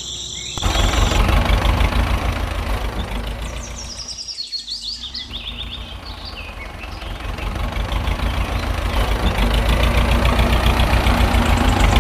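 A small motor running with a rapid low pulsing chatter. It starts about half a second in, eases off around the middle and builds again toward the end. Brief high chirps come in around the middle.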